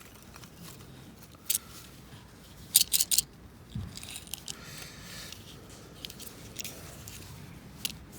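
Handling noises: a sharp click, then a quick run of three sharp clicks about three seconds in, followed by a soft low thump and a few lighter ticks.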